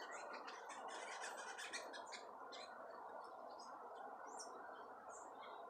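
Many different birds chirping, with lots of short, high, overlapping calls that thin out toward the end, over a steady low hiss.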